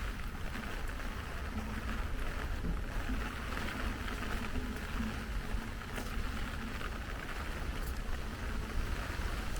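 Steady rain falling, an even hiss with a low rumble underneath and a faint hum through the first half.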